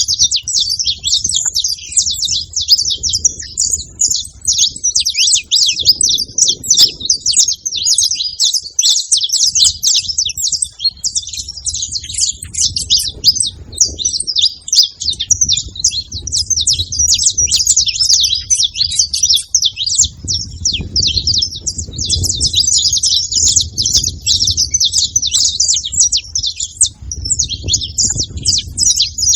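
Several saffron finches chirping and singing together in a dense, unbroken stream of rapid high chirps.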